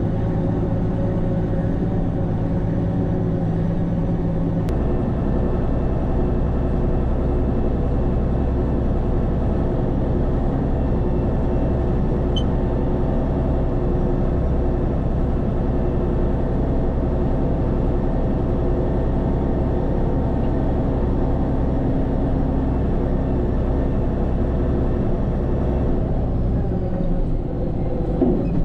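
Case 2670 four-wheel-drive tractor's diesel engine running steadily under load while pulling a disc chisel through the field. Its low note shifts about five seconds in and changes again near the end.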